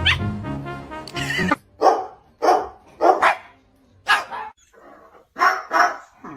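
Background music for the first second and a half, then a dog barking: about seven short barks, singly and in pairs.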